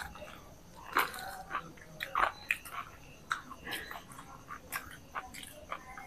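People biting into and chewing crisp, breadcrumb-coated fried vegetable chops: irregular crunches, the loudest about one and two seconds in.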